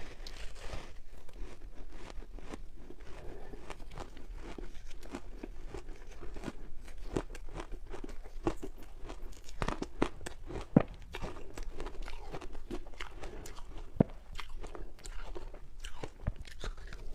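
Crunchy ice with matcha powder being bitten and chewed close to the microphone: a run of irregular crunches, with two sharper, louder cracks in the second half.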